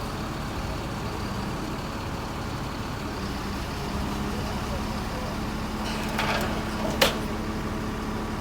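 Crane truck's engine running steadily, with a short hiss about six seconds in and a single sharp knock about seven seconds in.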